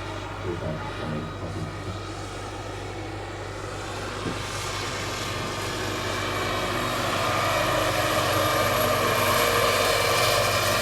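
Turbine-powered scale model Agusta AW109 K2 helicopter running: a steady turbine whine with rotor noise, growing louder from about halfway through.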